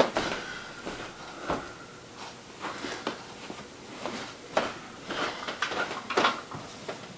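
Scattered knocks and clatter of hard objects being handled and set down, with no motor running.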